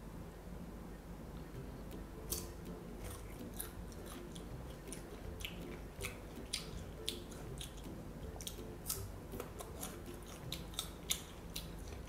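Close-up crunchy chewing of firm mango slices, with irregular sharp crunches that start about two seconds in and keep coming at uneven intervals.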